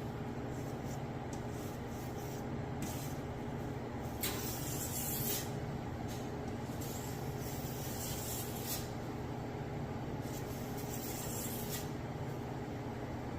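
Bone Tactical Space Cowboy machete's steel edge stroked along a fine ceramic sharpener, giving hissy scraping strokes at irregular intervals, one longer stroke about four seconds in. It is a light touch-up honing of an edge that is already sharp, over a steady low hum.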